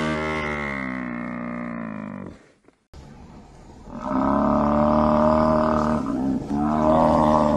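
Water buffalo lowing in long, drawn-out calls. A call already under way drops slightly in pitch and fades out about two and a half seconds in. After a short silence a louder long call begins about four seconds in, with a brief break partway through.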